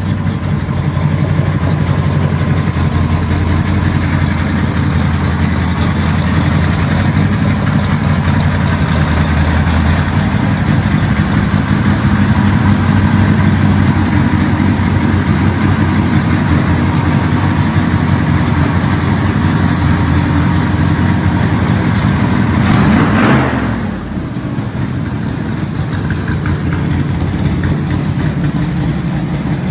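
Classic muscle car engines rumbling at low speed through open exhausts as cars cruise by. About 23 seconds in, one car swells up loudly and sweeps past.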